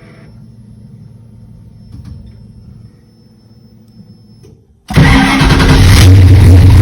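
A 512 cubic inch big-block V8 with Holley Sniper EFI is cold-started at an engine temperature of 51 degrees. A faint low hum and a thin high whine come first. Nearly five seconds in, the engine catches at once and runs loudly and steadily.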